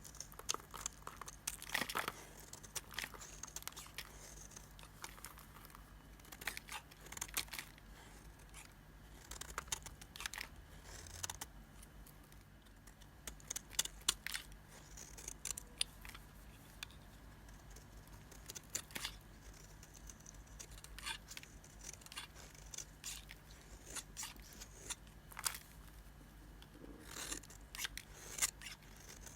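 A blade cutting into an old, dried-out bar of Nissan soap, giving irregular crisp crackles and snaps as the hard soap splits and crumbles, some in quick clusters.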